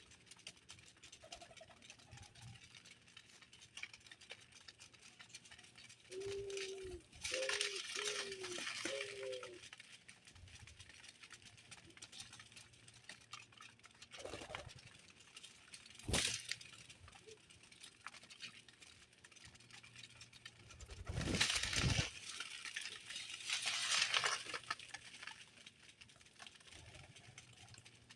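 Birds at a feeder: scattered rattling, pecking and rustling noises, with a sharp click about sixteen seconds in. A short run of four low notes sounds about seven seconds in.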